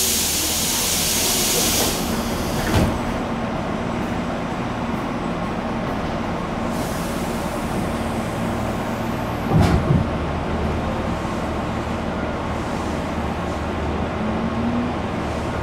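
Inside a Tobu 8000-series commuter train car at a station stop: a loud hiss of air for about two seconds as the doors work, a thud about three seconds in as they shut, then a double clunk near ten seconds in, over the car's steady low rumble as the train gets ready to pull out.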